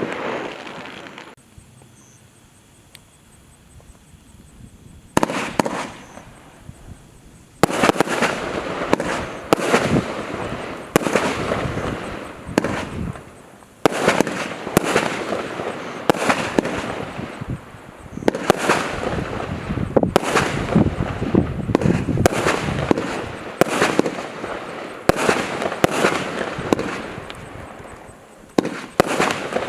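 Consumer firework cake firing a barrage of shots: sharp bangs with echoing tails. After a short lull near the start, a few shots come, then from about seven seconds in the shots follow one another almost without a break.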